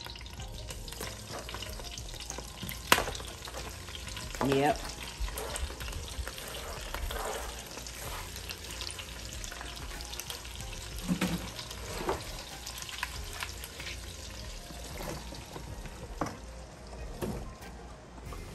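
Sliced onions and yellow squash going into melted butter in a hot skillet, sizzling steadily, with scattered knocks and clicks of pieces and utensils against the pan. One sharp knock comes about three seconds in.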